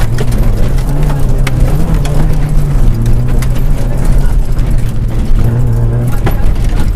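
Rally car engine heard from inside the cabin, working hard on a gravel stage. The revs climb over the first couple of seconds, drop about three seconds in and rise again near the end, with frequent sharp clicks and knocks over the engine noise.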